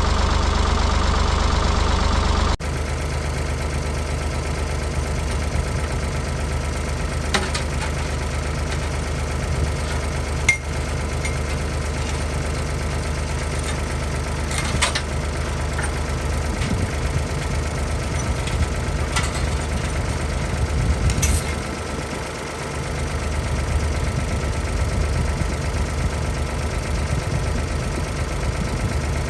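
Ford 555 backhoe loader's engine running steadily, with a few sharp clanks now and then.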